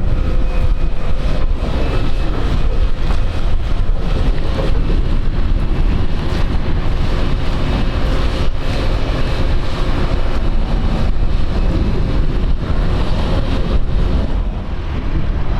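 Steady rumbling noise of an Airbus A321neo's jet engines, with wind rumbling on the microphone.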